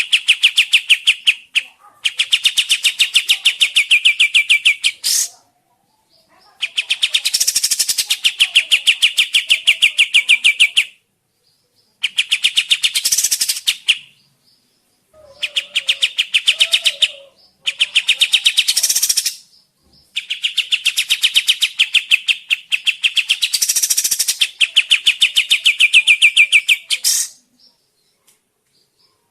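Kapas tembak songbird singing in loud bouts of very fast, chattering repeated notes, each bout a few seconds long, broken by short pauses.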